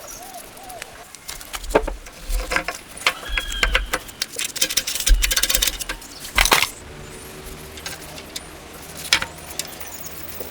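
Metal tools and engine parts clinking and clattering as they are handled: a busy run of rattles and knocks through the first two-thirds, with a few dull thumps among them, then only an odd click.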